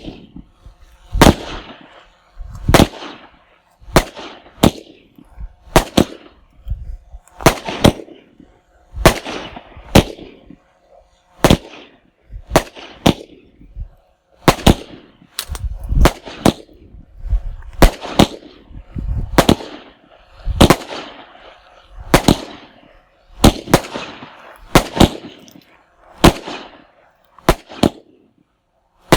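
A 25-shot firework cake firing: a run of sharp bangs, about one or two a second, each trailing off briefly.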